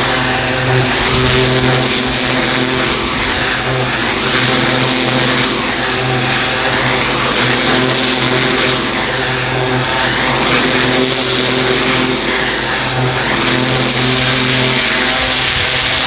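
Pressure washer engine running steadily under the loud hiss of a high-pressure water jet on paving, the hiss rising and falling in slow sweeps.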